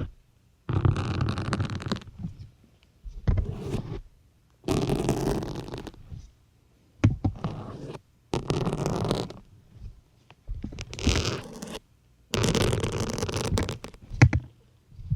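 Syringes pushed one after another into a soft sponge, a drawn-out 'ppuuk' push about a second long, repeated about seven times with short silent pauses between.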